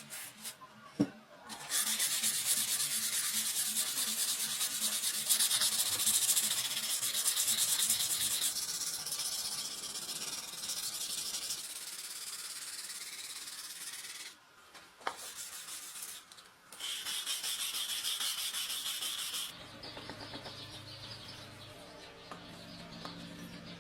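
Abrasive sanding of the leaf-spring steel blade: a steady hiss in three stretches with short breaks, stopping a few seconds before the end, after which a quieter low hum remains.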